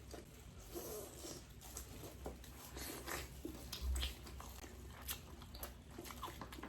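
People chewing and eating, with scattered small clicks and taps. There is a dull bump about four seconds in.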